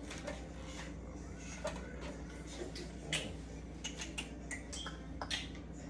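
Light, irregular clicks and knocks of plastic juicer parts being handled and set down, over a steady low room hum.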